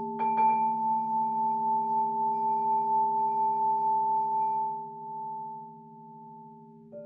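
Several crystal singing bowls ringing together in steady, pure, overlapping tones with a slow pulsing beat. A bowl is struck twice just after the start, the highest tone fades out about five seconds in, and another bowl is struck near the end.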